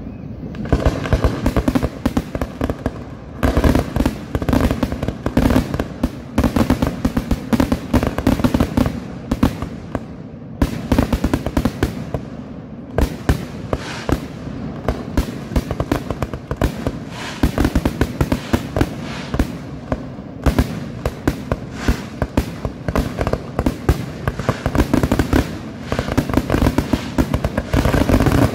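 Aerial fireworks display: a dense, continuous barrage of shell bursts and crackling, many bangs a second with only a few brief lulls.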